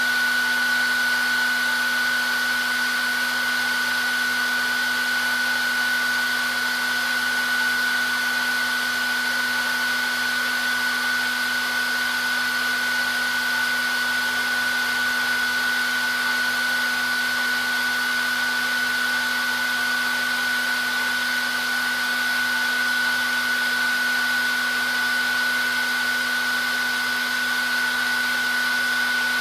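Hair dryer running continuously at a steady speed: an even rush of air with a constant high motor whine and a lower steady hum.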